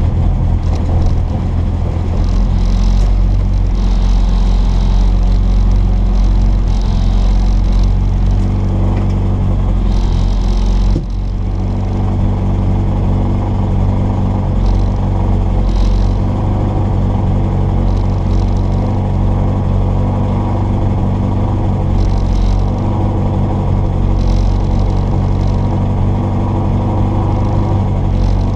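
Mini Cooper S A-series four-cylinder engine, fitted with an Arden 8-port cylinder head and twin Weber 40 DCOE carburettors, running hard as the rally car is driven at speed. The level drops briefly about eleven seconds in, as at a lift off the throttle or a gear change.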